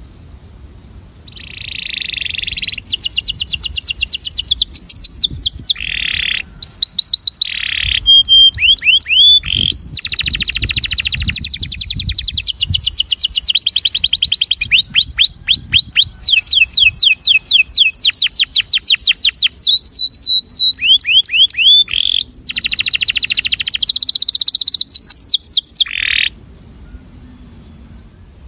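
Male domestic canary singing a long song of rapid trills: each phrase a fast run of the same high note repeated many times, one trill following another with changes of pitch and speed. The song stops about 26 seconds in.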